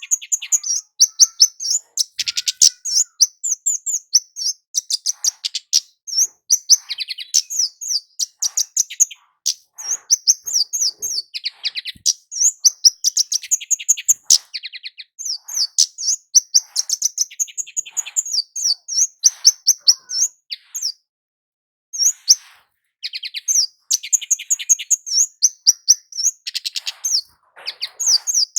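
Kemade jawa, a small flowerpecker, singing a fast string of sharp, high chirps in bursts. There is one brief pause about three-quarters of the way through.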